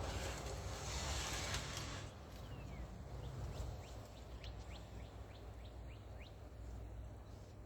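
A passing vehicle's noise fades out over the first two seconds. Then a bird calls a quick series of about eight short, high, downward-sweeping notes over a low background rumble.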